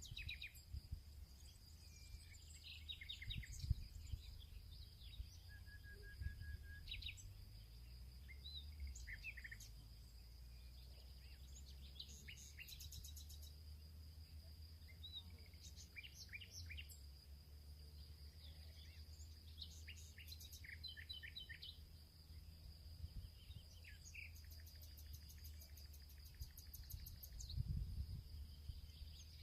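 Field ambience: several small birds chirping and trilling in short calls over a steady high insect drone, with a faint low rumble underneath.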